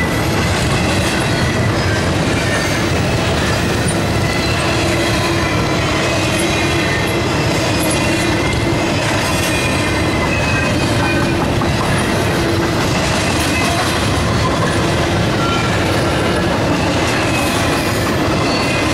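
CSX intermodal freight train rolling past: a steady rumble of wheels on rail with clickety-clack and short, thin, high wheel squeals.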